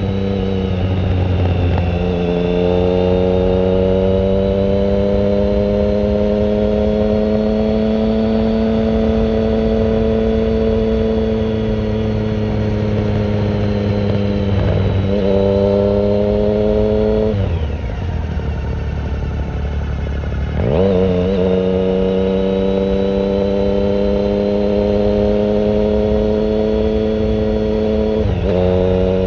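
2009 Triumph Speed Triple 1050's inline three-cylinder engine through a short Competition Werkes exhaust with no silencer, pulling steadily under way. The note breaks briefly a few times, and about halfway through it drops off for about three seconds before picking back up.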